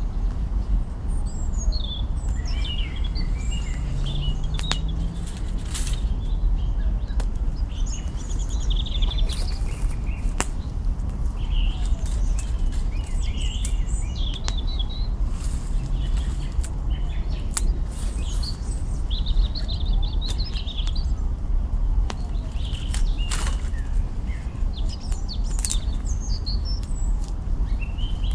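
Wood campfire crackling and popping in scattered sharp snaps, over a steady low rumble. Small birds chirp in short phrases throughout.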